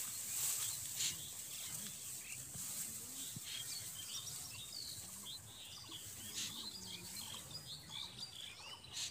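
Small birds chirping, with many short high calls that grow busier after the first couple of seconds, over a steady high hiss. There are a couple of soft knocks near the start.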